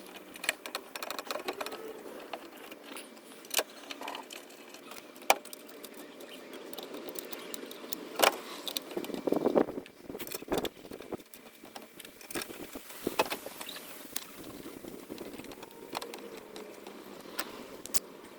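Scattered metallic clicks, rattles and knocks of screws and hand tools while a plastic under-fender access panel is screwed back in place, with a few louder knocks among them.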